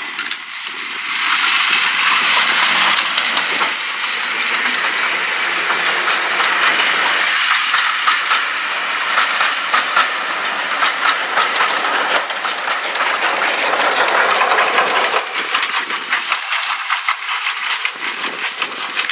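A train hauled by Class 37 diesel locomotive D6732 passing close by, its wheels clattering over the rail joints. It grows loud about a second in and eases off after about fifteen seconds.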